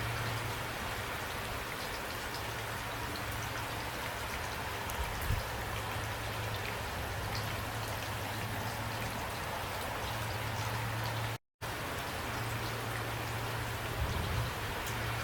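Steady rainstorm: rain falling hard with scattered individual drops ticking on surfaces. The sound cuts out completely for a split second about two-thirds of the way through, then resumes unchanged.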